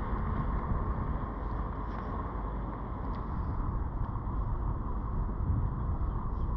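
Wind buffeting an action-camera microphone that has no windsock, a steady low rumble, with water lapping against the kayak.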